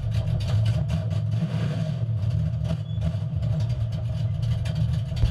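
Small-block Chevy V8 of a drag race car running steadily at low revs: a deep rumble that neither rises nor falls.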